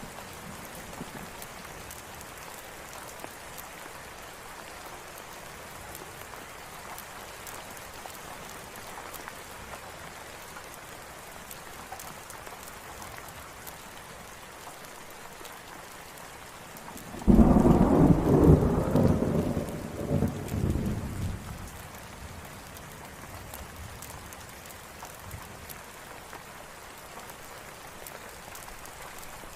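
Steady rain falling, with a loud thunderclap about 17 seconds in that rumbles on in waves for about four seconds before dying back under the rain.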